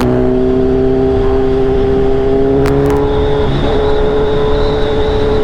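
Kawasaki Z1000 inline-four engine pulling at steady revs while riding, its pitch easing up slightly and then holding, with a brief dip about three and a half seconds in. A couple of sharp clicks cut in near the start and around the middle.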